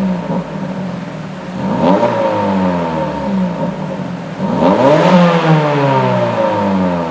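Mazda 3 Axela 2.0's four-cylinder engine revved through a stainless steel 304 valved catback exhaust: two quick throttle blips, about two seconds in and again past four seconds, each climbing fast and falling back slowly toward idle.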